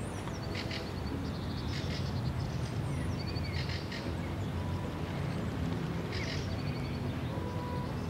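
Small birds chirping, with several short, quick trills, over a steady low background rumble.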